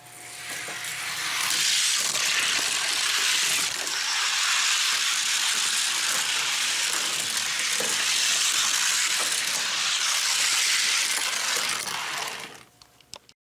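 Small die-cast cars rolling down a gravity race track: a steady rushing hiss of little wheels on the track that fades near the end, followed by a few light clicks.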